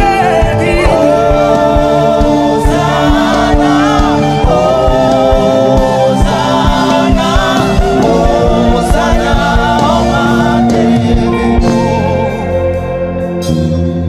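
Gospel music: sung voices over a band with sustained keys and a steady beat. About twelve seconds in the beat drops out and the music goes quieter.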